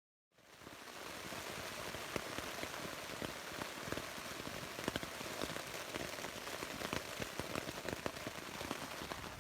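Heavy rain falling and striking a surface close by, a dense hiss dotted with many sharp individual drop hits. It cuts in abruptly from dead silence about a third of a second in.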